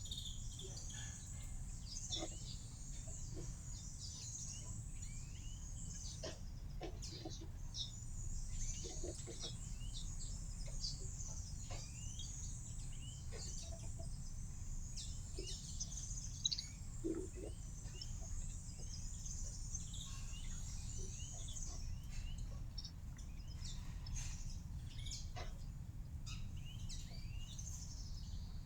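Small birds chirping again and again: many short, quick, mostly falling notes over a steady low background noise.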